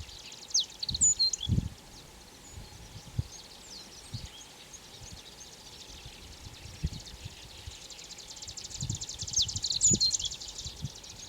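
Ochre-rumped bunting singing, in two short phrases of thin, high sliding notes: one about half a second in and one about nine seconds in. Behind it runs a fast, high ticking, with scattered low rumbles.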